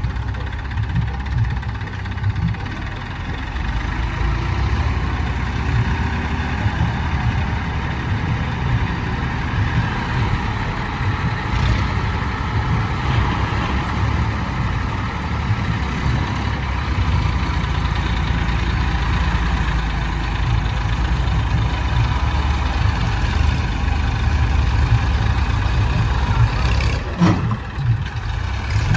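Diesel engine of a JCB 3DX backhoe loader running steadily, with a single sharp knock near the end.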